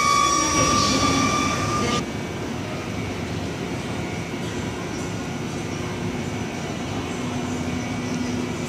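A loud horn-like sound holding several steady pitches cuts off abruptly about two seconds in. It gives way to the steady hum and rush of an electric train standing at the platform.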